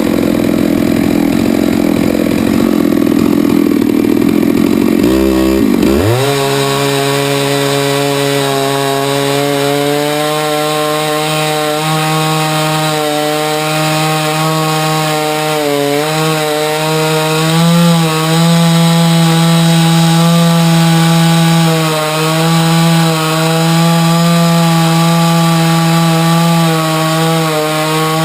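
Chainsaw milling a hard maple log, running hard throughout. About five seconds in the engine note dips and quickly climbs back to a steady high pitch that wavers slightly as it cuts.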